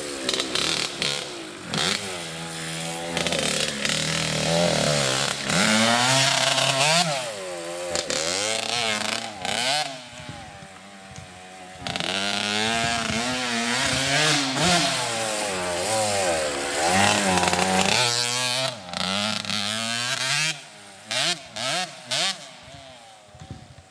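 Motocross dirt bike engine riding the track, its pitch climbing and dropping again and again as the rider works the throttle and shifts gears.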